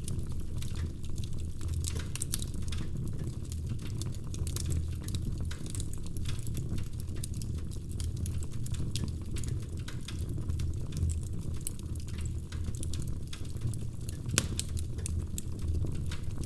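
Wood fire crackling in a fireplace: frequent small pops and snaps over a steady low rumble, with one sharper pop about fourteen seconds in.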